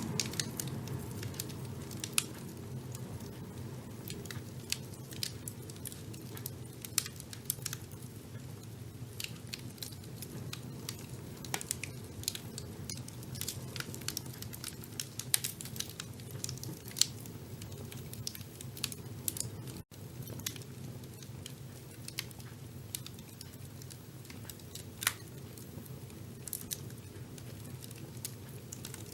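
Wood fire burning in a fireplace: a steady low rumble of flames with irregular sharp crackles and occasional louder pops.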